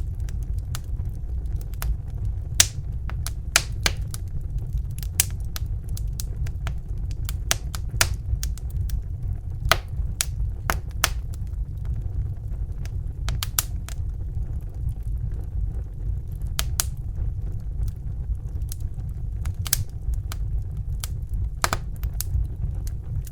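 Steady low roar of a Bunsen burner flame, with sharp crackles and pops of a wood fire at irregular moments, sometimes in quick clusters.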